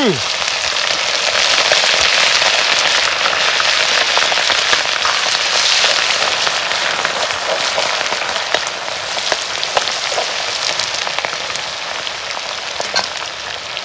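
Spices frying in hot oil in an iron kadai: a dense sizzle with fine crackles. It swells a second or two in as the spices go in and stir through, then slowly eases.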